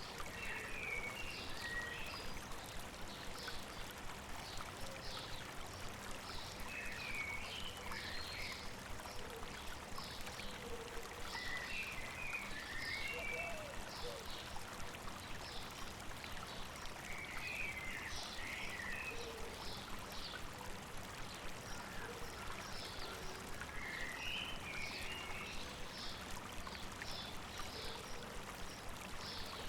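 A river or stream running steadily over rocks, with a bird repeating a short warbled song phrase about every five to six seconds over a busy scatter of short high chirps.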